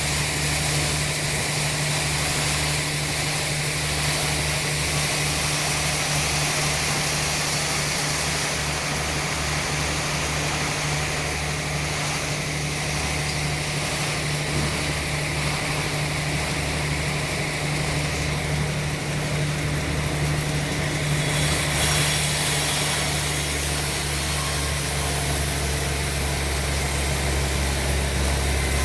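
Sawmill machinery running steadily: a low engine hum with an even high hiss above it.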